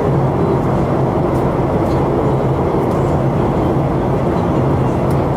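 Steady jet cabin noise inside a Boeing 737-800: the even rush of its CFM56-7B engines and airflow, with a low steady hum underneath.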